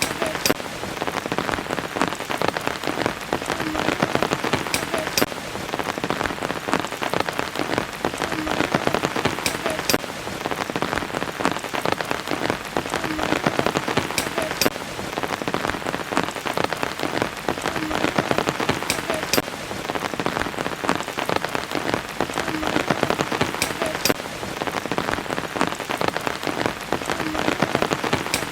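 Steady rain, a dense patter of many drops, with sharper single drop ticks throughout. The same stretch of sound repeats about every five seconds.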